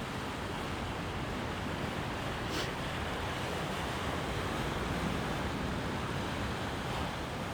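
Sea surf washing on the shore, a steady even rush with no single wave standing out.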